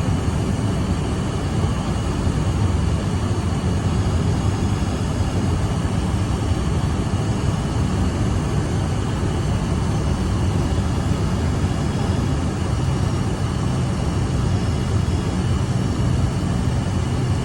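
Steady jet noise from a Cessna Citation II's twin Pratt & Whitney JT15D turbofans during landing, a low rumble with a faint steady whine above it that holds level throughout.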